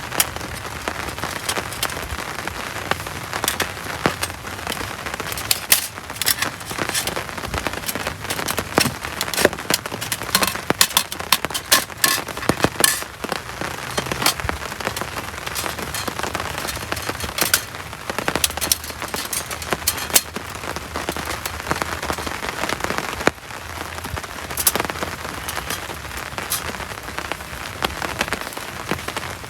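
Heavy rain falling steadily, with frequent sharp ticks and splats of drops striking a nearby surface.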